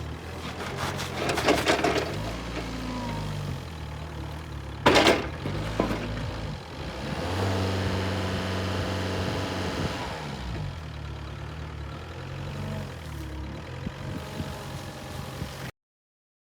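Linde H35D diesel forklift engine running, its speed rising and falling several times. There is a short loud burst of noise about five seconds in, and the sound cuts off abruptly near the end.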